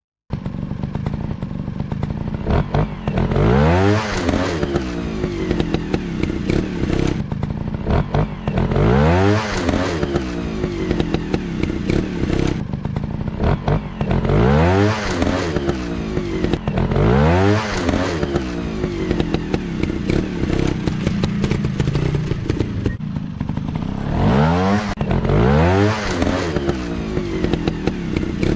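Dirt bike engine running, revved up and dropping back again and again, each rev a rising then falling whine over the steady running note.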